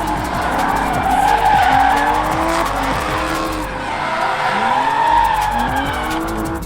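Drift cars sliding on track: engines revving up and down repeatedly, with tire squeal and skidding.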